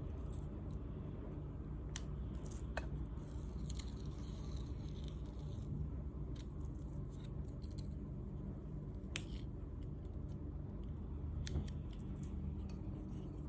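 Crafting handling sounds from sand-art work: a few sharp clicks and light scratchy rustling over a steady low hum.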